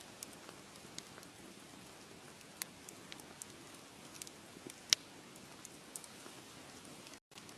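Wood fire crackling: a steady soft hiss with irregular sharp pops and snaps, the loudest about five seconds in. The sound cuts out for a split second near the end.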